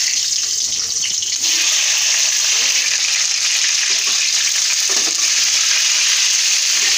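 Halved, seeded bitter gourds sizzling loudly as they fry in hot oil in a kadhai, the sizzle growing louder about a second and a half in as more pieces go in and then holding steady. A few light knocks come from a spatula moving the pieces.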